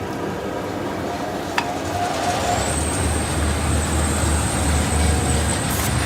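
Folding-box tape applying machine running with a steady mechanical noise and low hum; a high whine rises and then holds steady from about two and a half seconds in as the machine comes up to speed.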